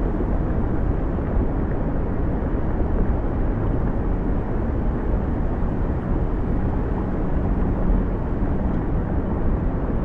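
Steady low rumbling outdoor nature ambience with no distinct events.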